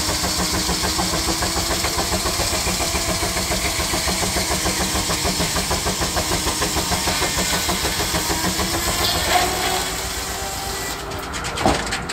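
Steam traction engine running under steady load, its exhaust making a fast, even beat. Near the end the sound drops and changes, with a sharp knock just before the end.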